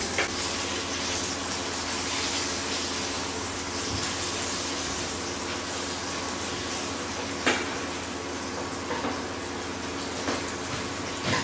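Chicken frying in hot oil, a steady sizzle, with a few brief clicks of a utensil or pan in the later seconds.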